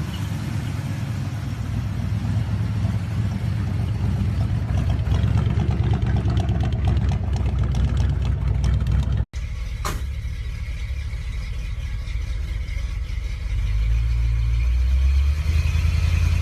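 Old pickup truck engine running with a steady low rumble that grows louder, cut off about nine seconds in by an edit to another truck engine running, which rises in level near the end.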